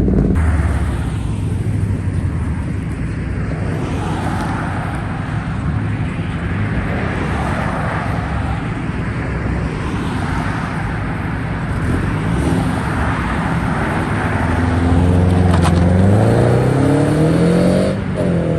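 Car engine running under a steady rumble of other engines, then revving up about fourteen seconds in, rising in pitch, dipping briefly and rising again near the end.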